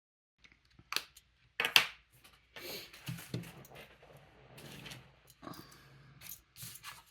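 Card and paper being worked with small craft tools: a few sharp clicks, the loudest just under two seconds in, and stretches of scraping and rustling in between.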